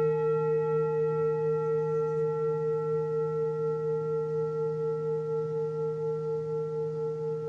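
Singing bowl ringing with a long, slowly fading tone, its higher overtones dying away first while the deep hum and main note sustain with a gentle, regular waver.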